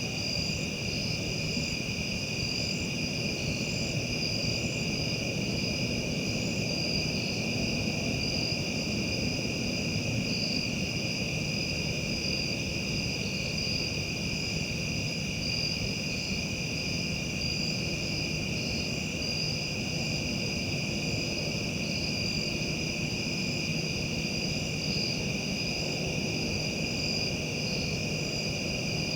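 Steady outdoor chorus of crickets and other insects, several trilling at different pitches with a faint regular pulse, over a low rumble.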